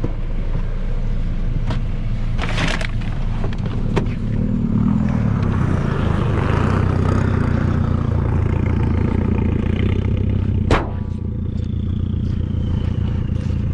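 Mini Cooper race car's engine running as the car goes off the track, with scraping and sharp knocks from the crash. The engine revs up about halfway through, and one loud knock comes near the end.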